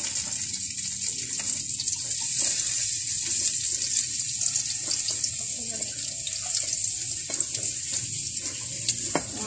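Garlic frying in hot cooking oil in a pan: a steady high sizzle with fine crackles.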